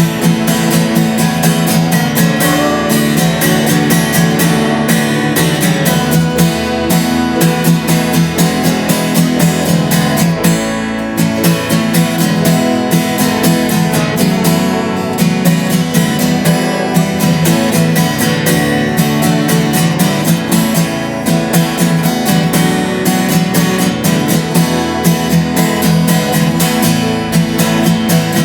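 Acoustic guitar strummed in a steady rhythm, playing a piece of music.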